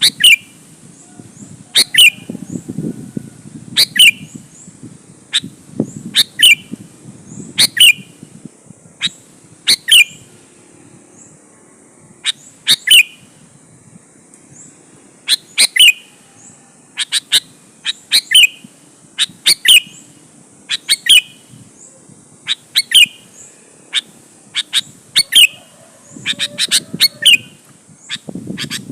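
Sooty-headed bulbul (kutilang) calling lively and repeatedly: short, sharp notes about once a second, some coming in quick pairs, over a faint low rumble.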